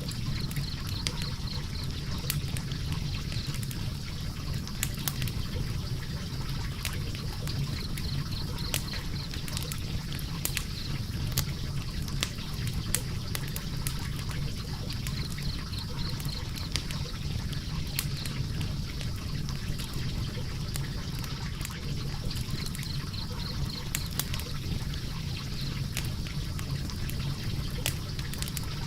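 Logs burning in a fireplace: a steady low rumble of the flames with frequent irregular crackles and pops from the burning wood.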